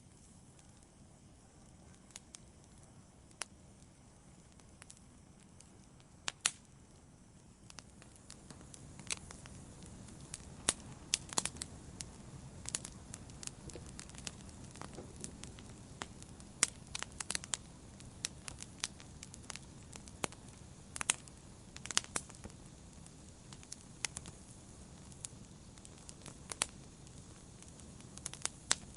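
Wood campfire crackling, with sharp pops and snaps at irregular intervals. About eight seconds in, a low steady rush of burning comes up underneath and the pops come more often.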